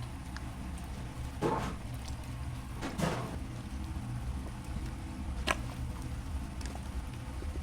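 Two short wet swishes of potato-starch batter being worked with water, a bit after a second in and again at about three seconds, and a sharp click a little after five seconds, over a steady low kitchen hum.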